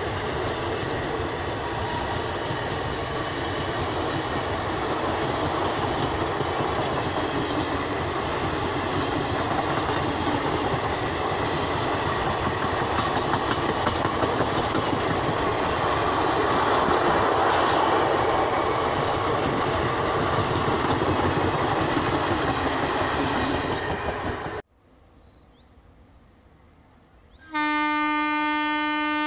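Blue Indian Railways passenger coaches running past close by, a loud steady noise of wheels on rail that cuts off abruptly about 25 seconds in. After a short quiet stretch, the horn of a WCAM-2 electric locomotive sounds near the end as one steady, held blast.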